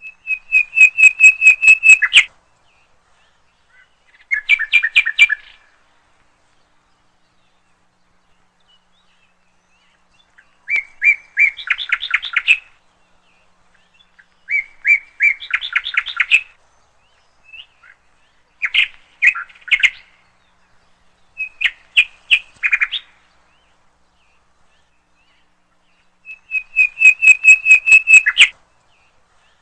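Bird song: about seven short trilled phrases of rapid, evenly spaced chirps, each lasting one to two seconds, with silent gaps of a few seconds between them.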